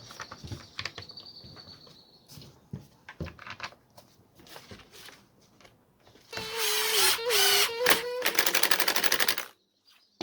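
Small handling clicks, then a cordless screwdriver driving a screw into the angle grinder's housing. Its motor runs for about two seconds with a wavering pitch, then breaks into a fast ratcheting clatter that stops suddenly.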